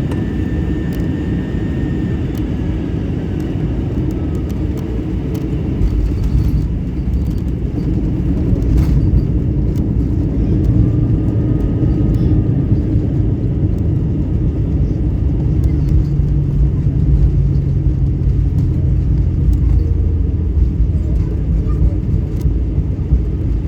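Airbus A321 cabin noise: steady jet-engine and airflow noise, with a deeper rumble that builds about six seconds in and a few faint clicks and knocks.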